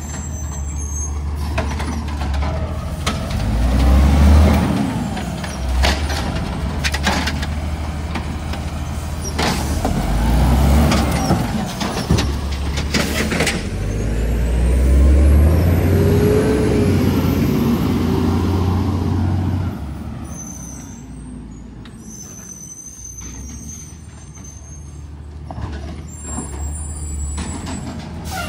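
Garbage truck engine running and revving up in several swells, with sharp metallic bangs between them; it drops to a quieter idle about two-thirds of the way in.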